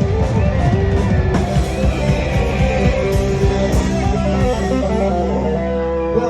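Live band playing, with guitar to the fore over steady low notes.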